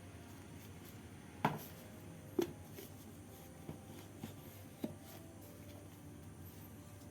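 Five short knocks and clicks, the loudest about a second and a half in and another a second later, then three lighter ones, over a steady low hiss.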